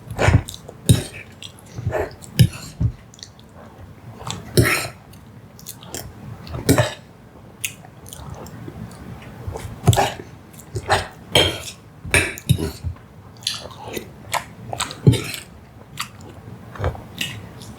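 Close-miked chewing of soft dessert: wet mouth smacks and clicks at irregular intervals.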